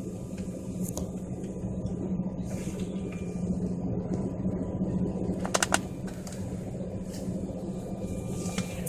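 Steady low drone inside an airliner's cabin: engines and air ventilation running, with a short cluster of clicks about five and a half seconds in.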